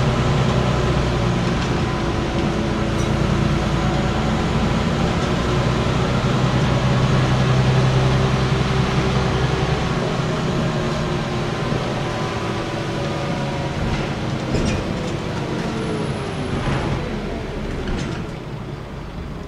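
Scania N94UB single-deck bus heard from on board, its engine running steadily under way, then easing off about halfway through, with its pitch falling as the bus slows toward the end.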